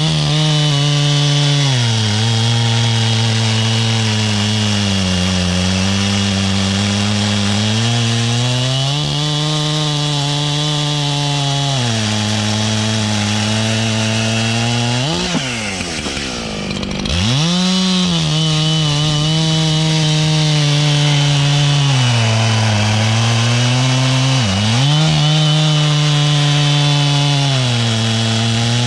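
Large gas chainsaw at full throttle cutting through dry ash. The engine pitch sags under load in each cut and rises again as the chain frees up. About halfway through, the engine drops briefly toward idle and revs back up. The chain's rakers are filed too low for the wood, so the saw bogs and has to be held up out of the cut.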